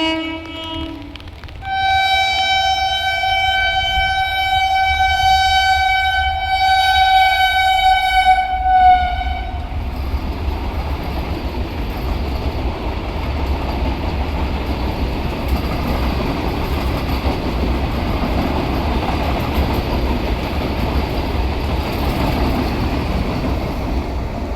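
An Indian electric train's horn gives a short note, then one long steady blast of about eight seconds that sags slightly in pitch as it ends. The train then runs past with a steady rumble of wheels on the rails.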